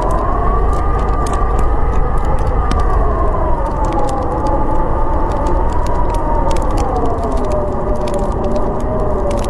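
Storm wind howling: a wavering whistle that slowly rises and falls in pitch over a steady low rumble. Sharp crackles of a wood fire are scattered through it.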